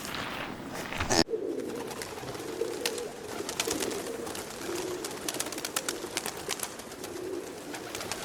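Pigeons cooing in low, wavering calls, with scattered light clicks.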